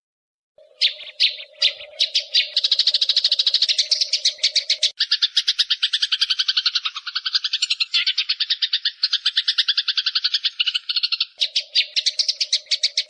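Eurasian tree sparrows chattering fast and harshly in a fight: rapid runs of sharp, repeated notes that start about half a second in and continue without a break, with a faint low hum underneath in the first part and near the end.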